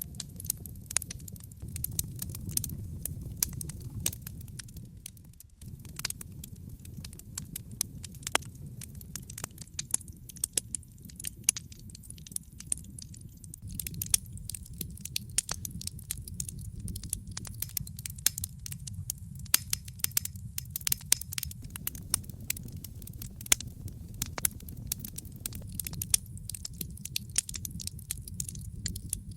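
Fireplace fire crackling, with frequent sharp irregular pops over a low steady rumble of the flames, which briefly drops away about five seconds in.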